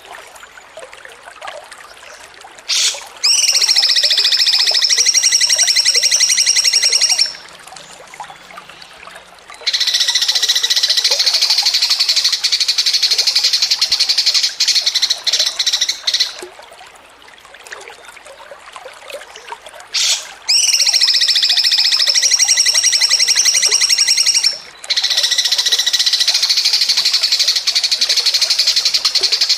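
A songbird giving long, fast, buzzy chattering trills, the rapid 'ngocor receh' chatter used as tutor song for competition birds. It sings four bouts of several seconds each, with short pauses between them.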